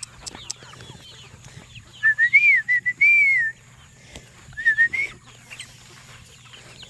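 A person whistling a short call to the poultry: a few quick high notes followed by a longer rising-and-falling note, heard twice. Faint clucking and scratching sounds lie underneath.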